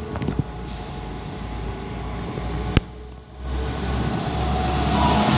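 Class 172 Turbostar diesel multiple unit pulling away from the station, its engines running under a rumble and hiss that build up towards the end. There is a single sharp click near the middle.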